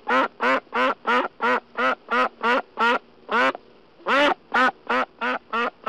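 Duck quacking in a rapid series of short, loud quacks, about three a second, with a brief pause about three and a half seconds in.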